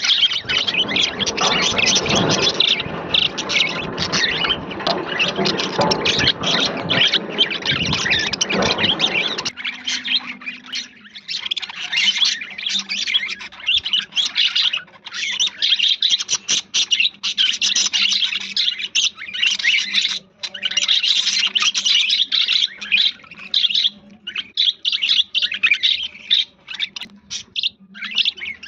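A flock of budgerigars chattering and chirping continuously in a dense, high twittering. About a third of the way in, a fuller, lower layer of sound drops away, leaving the chirping over a faint low steady hum.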